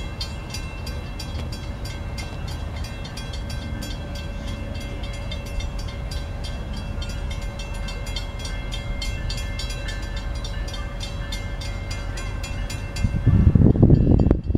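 CSX GP38-3 diesel freight train approaching out of sight: a steady low rumble with an even, rapid ticking about four times a second. About a second before the end, a loud, uneven low rumble rises.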